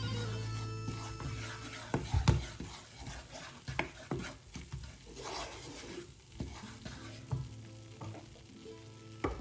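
A spoon stirring a pan of kuymak on the stove, with irregular clinks and knocks of the utensil against the pan over a light sizzle. A droning piece of instrumental music plays underneath, clearest at the start and near the end.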